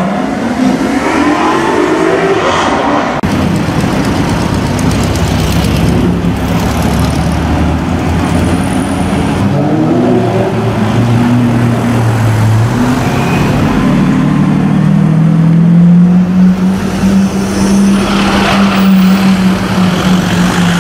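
Supercar engines on a city street. In the first few seconds a Maserati GranTurismo pulls away with a rising engine note; over the last several seconds another engine holds a loud, steady note.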